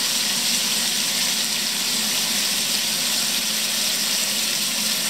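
Scallops searing in hot olive oil in a frying pan, a steady sizzle.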